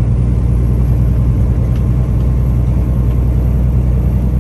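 Tractor-trailer's diesel engine running steadily under load while driving, heard inside the cab as a loud, even low drone.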